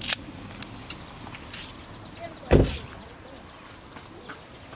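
A single dull thump about two and a half seconds in, the loudest sound here, among scattered light clicks and taps.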